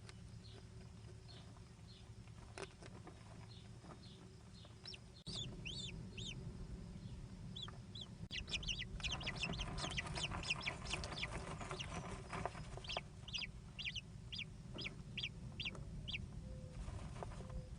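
American kestrels calling: a run of short, high, falling notes, a few a second, sparse at first and growing busier about eight seconds in, with a burst of rustling noise under them for a few seconds.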